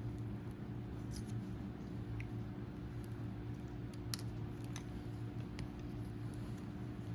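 A few faint, short clicks of small hand tools working at a seal on a hydraulic cylinder piston, over a steady low hum.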